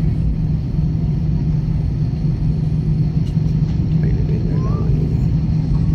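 Airplane engines running: a steady low rumble with a constant drone.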